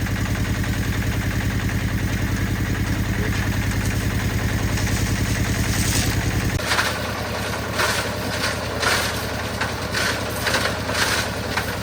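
Concrete mixer's engine running with a steady, even pulse, cutting off abruptly about six and a half seconds in. After that comes a series of short rasping noises, one or two a second.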